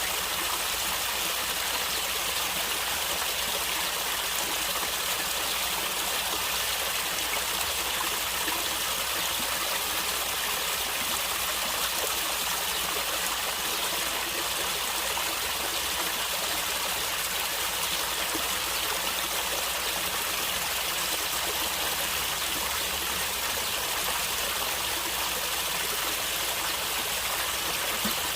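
Stream water flowing and gurgling steadily, an even rush of water with no pauses.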